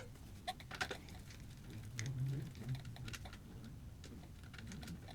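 Irregular small metallic clicks and taps of a hand tool working the terminal bolts as the battery cables are undone from a motorcycle battery.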